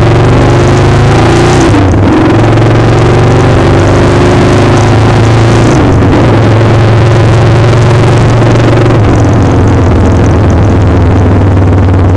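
Motorcycle engine running under way, heard under heavy wind noise on the microphone. The engine note dips briefly about two seconds in and again about six seconds in.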